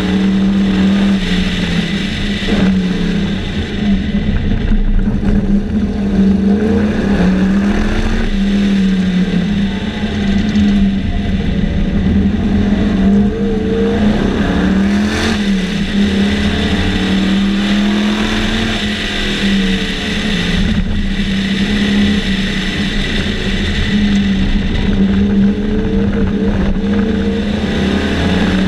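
Sunbeam Tiger race car's Ford V8 engine at racing speed, heard from on board, its pitch climbing and dropping every few seconds as the car accelerates and lifts off in turn, over steady wind and road noise.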